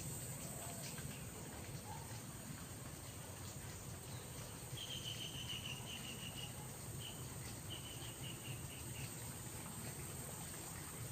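Outdoor ambience with a steady low rumble and hiss. About five seconds in comes a run of rapid high chirps, and a second run follows a couple of seconds later.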